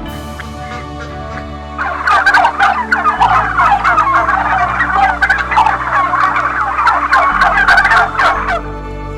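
A loud run of rapid, chattering animal calls that starts about two seconds in and stops shortly before the end, over soft background music.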